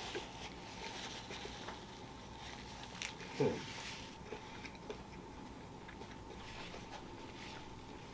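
A person chewing a mouthful of crispy fried chicken sandwich, with small soft clicks and smacks. About three and a half seconds in comes one short, low hum from the throat that drops in pitch.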